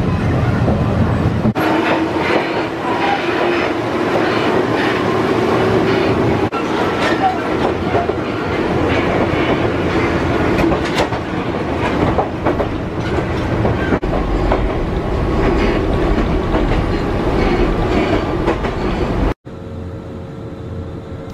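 Electric commuter train running, heard from inside the passenger car: a steady rumble of wheels on the rails with occasional clicks as it passes over rail joints. The sound cuts off suddenly near the end to a quieter, steadier background.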